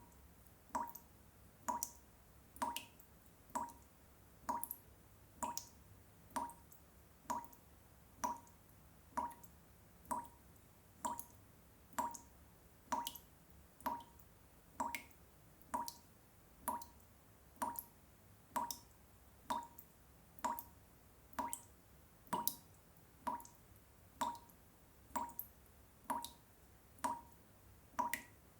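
Water drops falling one at a time in a steady, even rhythm, about three drops every two seconds, each a short plink.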